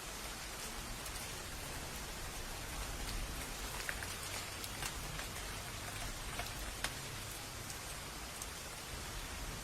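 Steady rain falling, with a few louder drops ticking sharply about four, five and seven seconds in.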